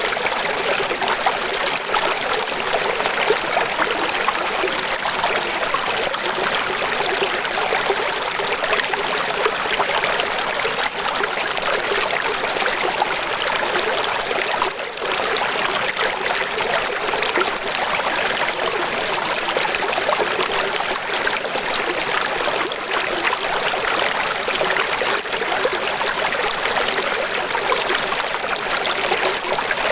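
Running water, a steady splashing flow with little deep rumble, with a brief dip about halfway through.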